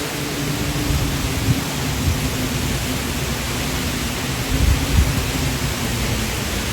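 Typhoon wind and heavy rain: a steady rushing hiss, with gusts buffeting the microphone in low rumbles, the strongest nearly five seconds in.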